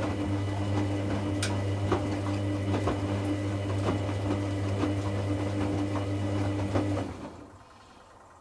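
Hoover Classica 1100 AC164 washing machine during its second rinse: a motor or pump hums steadily with scattered irregular clicks and knocks, then stops about seven seconds in.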